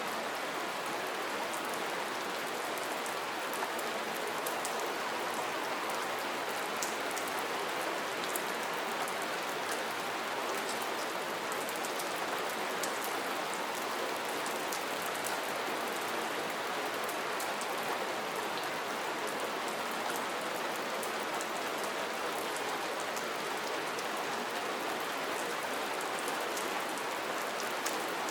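Steady rain falling, an even hiss with scattered distinct drops pattering on surfaces.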